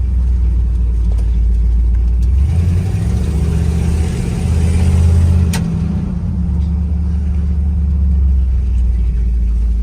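A 1972 Ford F250 pickup's engine running under way, a steady low drone through a dual exhaust with cherry bomb mufflers; the engine note shifts up for a few seconds near the middle, then settles back.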